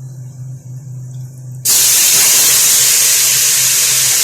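Marinated chicken going into hot ghee in a pressure cooker: a loud, even sizzle that starts suddenly about one and a half seconds in. Before it, a low steady hum.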